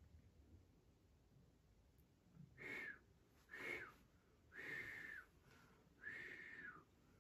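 An elderly man whistling four soft, breathy whistles at about the same pitch, each dropping at the end, to call for someone.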